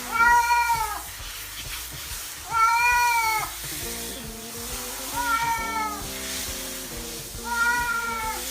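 A cat meowing four times, long drawn-out meows that rise and fall, about every two and a half seconds, over background music.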